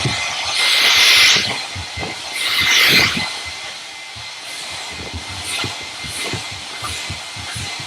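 Hand-held hair dryer blowing with a hiss in two loud surges, about a second in and about three seconds in, then much quieter for the rest, with faint short knocks underneath.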